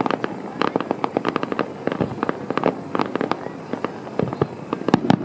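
Aerial fireworks display: a dense run of rapid pops and crackles from bursting shells, with a few louder bangs, the loudest near the end.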